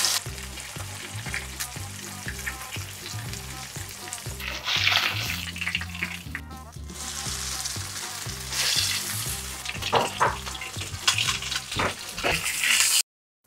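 Breaded basa fish fillets shallow-frying in rice oil in a frying pan, the oil sizzling and swelling louder a few times as the fillets are turned and lifted out with metal tongs. Light background music underneath; the sound cuts off suddenly near the end.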